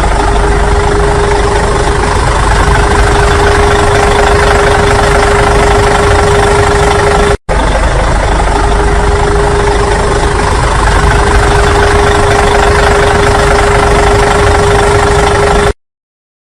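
Loud, steady engine-like noise with a constant hum, cut for a split second about seven seconds in and stopping abruptly about a second before the end.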